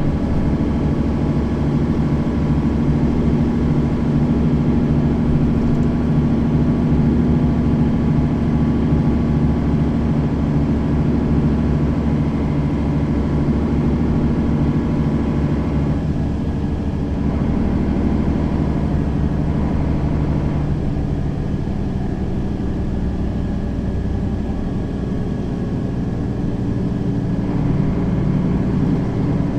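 Mercedes-Benz Citaro facelift city bus engine running steadily while the bus is under way. Its note changes about halfway through and again around two-thirds in.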